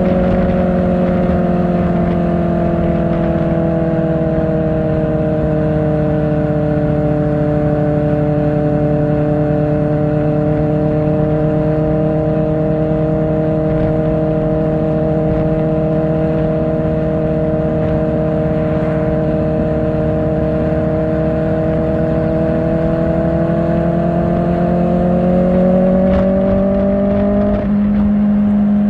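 Kawasaki Ninja ZX-4R's inline-four engine through an Akrapovic exhaust, running at fairly steady revs while riding. The pitch sags a little, then climbs near the end and changes abruptly to a new note.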